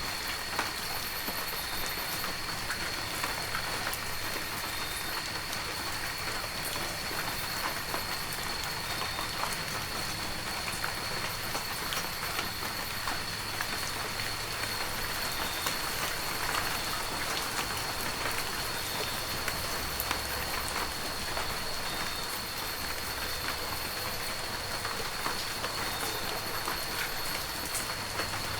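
Heavy rain falling steadily: a dense hiss with many scattered sharp drop taps, and a thin steady high tone running through it.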